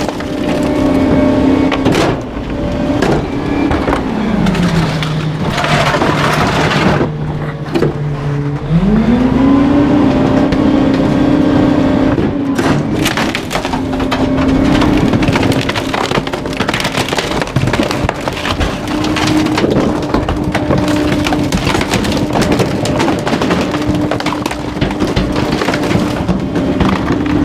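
Garbage truck engine revved up to run the packer's hydraulics while bulky items crack and snap as they are crushed. The revs drop to idle about four seconds in, then climb back up about five seconds later and hold.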